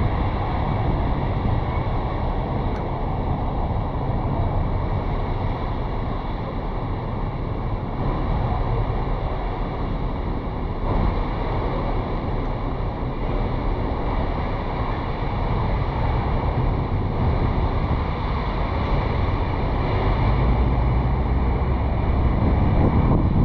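Wind rushing over the microphone of a GoPro action camera mounted on the roof of a moving car, along with the car's road noise. The sound is a steady rush that grows slightly louder near the end.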